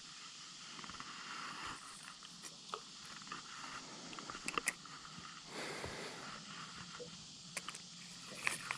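Fishing gear being handled in a small boat: light irregular clicks, taps and scrapes, with a broader knock about halfway through, over a faint steady outdoor hiss.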